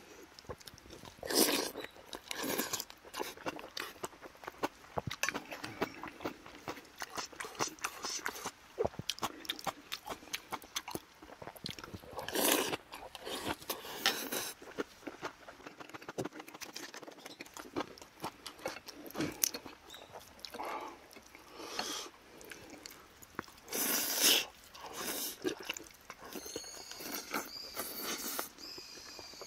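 Close-up eating sounds of a man chewing and biting rice soup and aged kimchi: wet mouth clicks and crunching at an irregular pace, with a few louder bites about a second in, midway and late.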